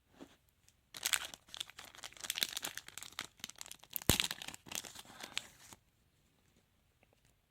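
Foil trading-card packet wrapper being torn open and crinkled by hand, a dense papery crackle with one sharp snap about four seconds in.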